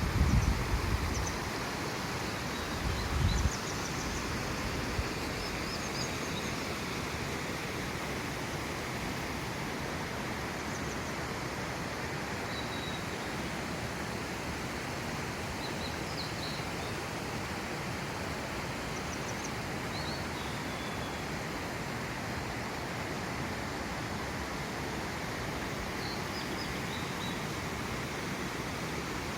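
Steady outdoor noise with short, faint bird chirps scattered throughout. Wind buffets the microphone in the first second and again about three seconds in.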